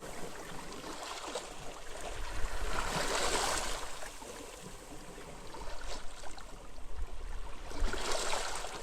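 Sea waves washing onto a beach, surging twice about five seconds apart, with a low wind rumble underneath.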